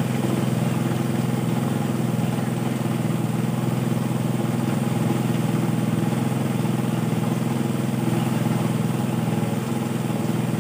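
Engine-driven water suction pump running at a steady, unchanging speed, a continuous low hum.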